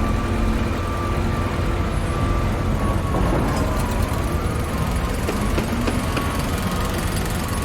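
Construction-site ambience: heavy diesel machinery and trucks running with a steady, deep rumble, a faint steady whine above it and a few light mechanical ticks midway.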